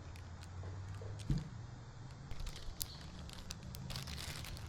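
A plastic candy bag of Nerds Clusters crinkling and crackling as it is handled, in scattered sharp crackles, with one dull thump about a second in.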